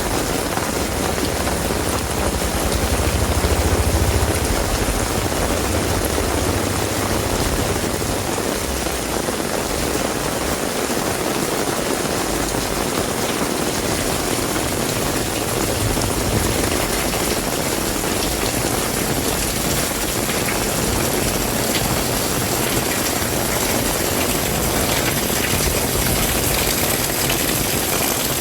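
Heavy rain falling steadily in a dense, even hiss, with a low rumble that swells about three to four seconds in.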